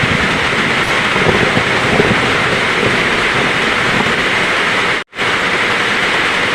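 Heavy rain falling steadily, with a low rumble underneath. The sound cuts out completely for a split second about five seconds in.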